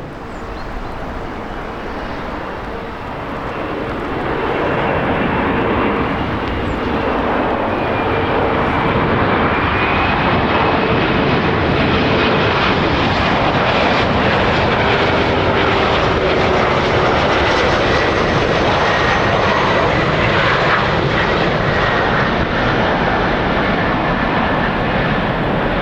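Jet airliner engines: a loud rushing noise that builds over the first several seconds and then holds steady, with thin whining tones slowly drifting in pitch.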